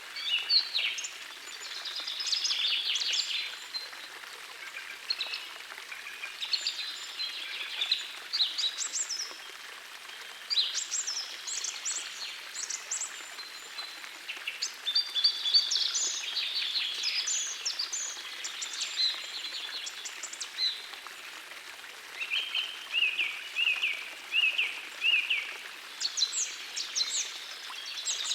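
Songbirds singing in short repeated phrases over the steady rush of a forest stream. About two-thirds of the way through, one bird gives a run of five or six short falling notes.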